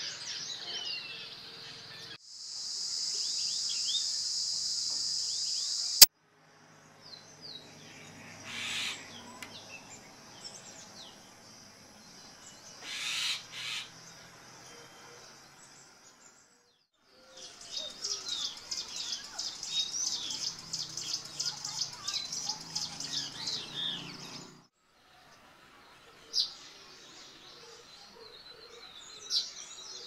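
Wild birds chirping and calling in several short outdoor recordings spliced together, so the sound changes abruptly every few seconds. The segments run from scattered high chirps, to a dense steady high buzz, to a rapid run of high, quick notes.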